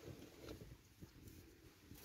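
Near silence with the faint crackle of a campfire: a low hiss and a couple of soft clicks.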